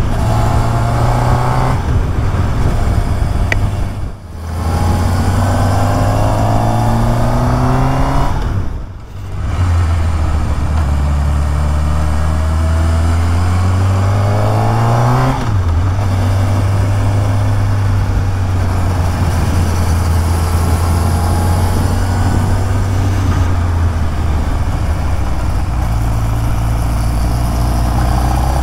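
Honda CB1000R inline-four motorcycle engine pulling through mountain bends, with wind rush over the mount. About fifteen seconds in the engine note climbs and then drops with a gear change; the sound dips briefly twice before that.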